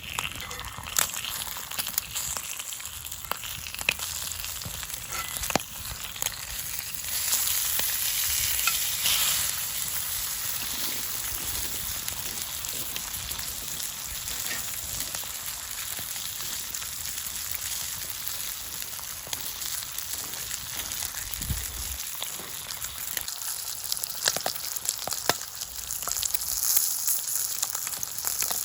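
Thick-cut bacon and eggs frying in olive oil in a pan over a campfire: a steady sizzling hiss with scattered sharp pops, swelling a little about seven seconds in.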